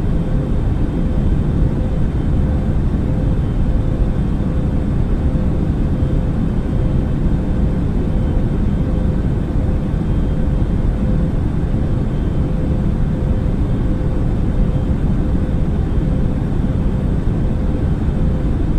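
Airbus A380 jet engine noise: a steady low rumble with a faint steady hum, unchanging throughout.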